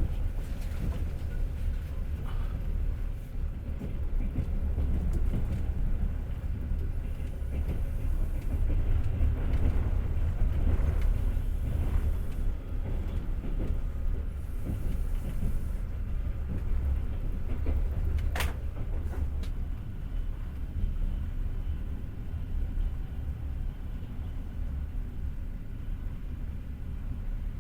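Passenger train carriage running along the track: a steady low rumble of wheels on rails, a little louder around the middle, with one sharp click about eighteen seconds in.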